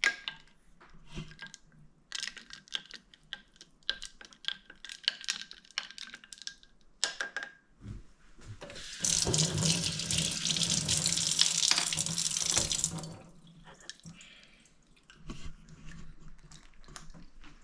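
Kitchen tap running into a sink for about four seconds, the loudest sound here, after a stretch of light clinks and knocks.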